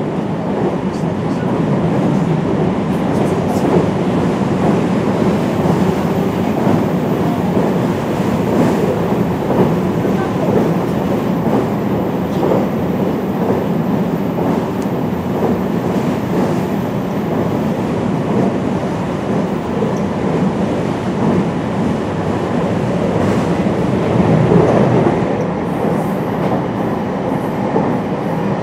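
Running noise of a JR West 223 series 5000 electric multiple unit travelling at speed, heard inside the car: a steady rumble of wheels on the rails.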